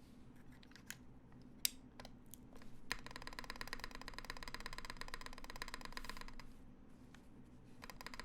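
Keystrokes on the Percent Studio Skog-Reboot prototype mechanical keyboard, fitted with a GMK spacebar: a few scattered key clicks, then a fast, even run of clicks lasting about three and a half seconds from about three seconds in.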